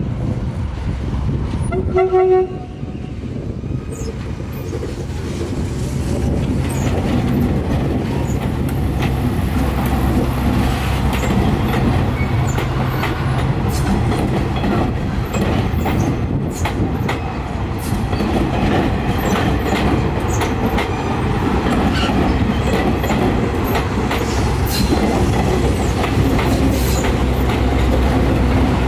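Metrorail electric multiple unit commuter train gives a short horn toot about two seconds in, then passes close by with a steady rumble of wheels on rails and a regular clickety-clack over the rail joints.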